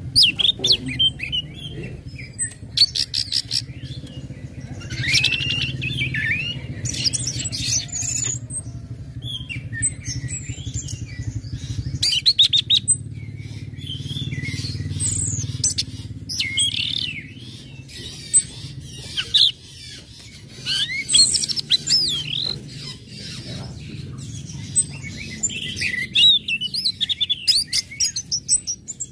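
Orange-headed thrush calling and singing: repeated bouts of fast, sharp chip notes mixed with warbled, swooping phrases, over a steady low hum.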